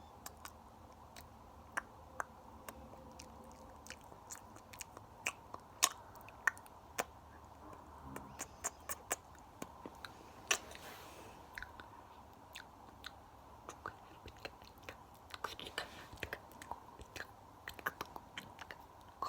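Close-miked ASMR mouth sounds: a quick, irregular run of wet clicks and smacks of lips and tongue, like chewing, with two short breathy hisses about ten and fifteen seconds in.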